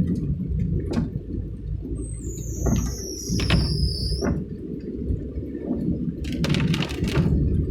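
Car interior: steady engine and road rumble while driving. About two seconds in, a high thin squeal glides downward and fades by about four seconds.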